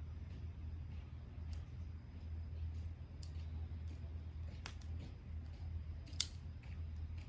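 Small wood fire crackling, with a few sharp pops, the loudest about six seconds in, over a steady low hum. Faint high insect chirring pulses evenly throughout.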